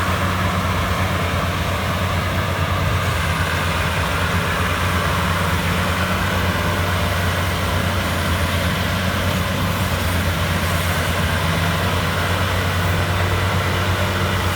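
Rice combine harvester's engine running steadily, a constant low hum with mechanical noise over it.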